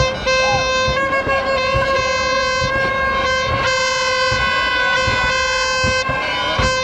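A long, steady horn blast on one held note, starting suddenly and dipping briefly near the end, over a noisy crowd.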